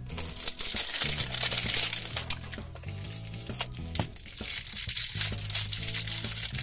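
Crinkling and tearing of a toy's plastic blind-bag wrapping as it is pulled open, over background music with a steady bass line.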